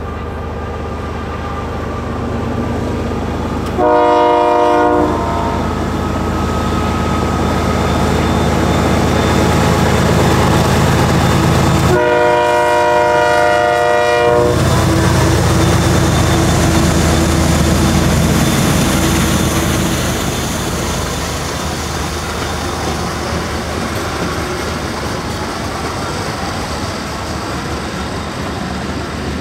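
Canadian Pacific GE ES44AC diesel locomotive sounding its multi-chime horn, a short blast about four seconds in and a longer one around twelve seconds, as it passes with its engine running. Loaded covered hopper cars follow, rolling by with a steady clickety-clack of wheels over rail joints.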